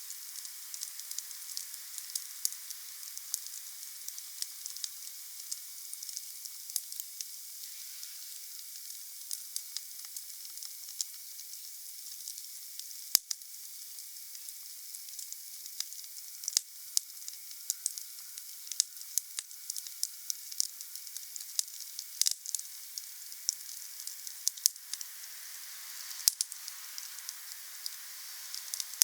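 Wood campfire burning: a steady hiss with frequent small crackles and pops, and one sharp loud pop about halfway through.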